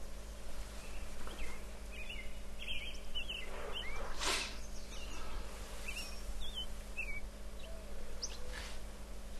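Small birds chirping in short, scattered calls over a low steady hum, with a brief soft rush of noise about four seconds in.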